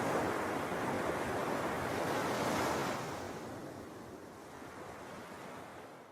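Sea waves washing on the shore as steady surf noise, fading out over the last few seconds until it cuts off at the end.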